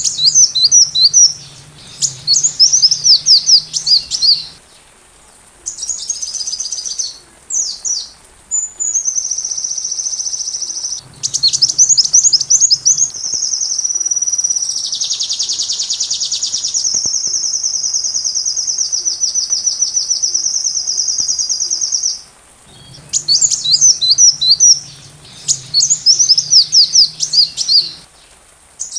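Sunbird (kolibri) singing: bursts of rapid, high chirps and trills, broken by a long high trill held steady from about nine seconds in to about twenty-two seconds, before the chirping bursts resume.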